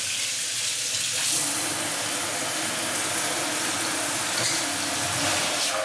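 Kitchen faucet running into the sink: a steady stream of water that gets louder about a second in.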